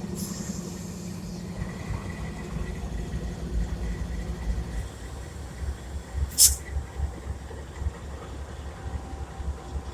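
CSX diesel locomotive standing and idling with a low, throbbing rumble that changes and drops lower about five seconds in. A brief, sharp burst of hiss about six and a half seconds in is the loudest moment.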